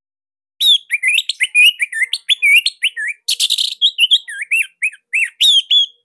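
Orange-headed thrush (anis merah) singing a rapid, varied song of short whistled notes that slide up and down. A brief harsh, rasping note comes about halfway through.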